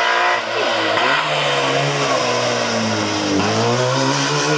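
Trabant 601 rally car's two-stroke twin engine driven hard past at close range. The revs dip briefly, climb, fall away for about two seconds as it goes through the bend, then climb again as it pulls away.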